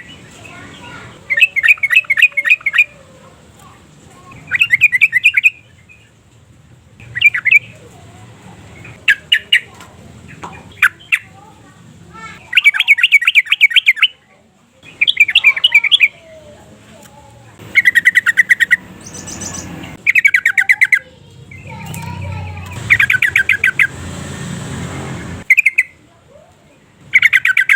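Yellow-vented bulbul (trucukan) calling in a string of short, loud bursts of rapid bubbling notes, each a second or so long, repeated every one to two seconds, with a few single sharp calls between them.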